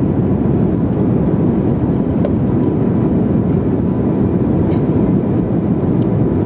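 Steady low rumble of airliner cabin noise: the engines and air rushing past, heard from inside the cabin.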